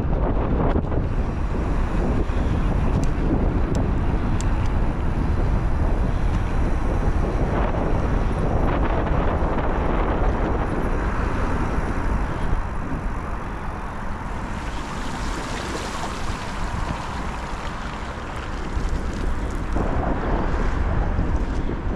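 Wind buffeting the microphone of a moving bicycle, a steady rumbling rush that eases a little for several seconds past the middle.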